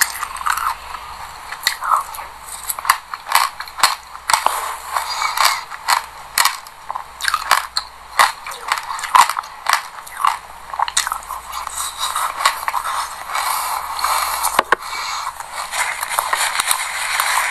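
Chewing a mouthful of raw sesame seeds mixed with passion fruit: a dense, irregular run of fine crunches and crackles.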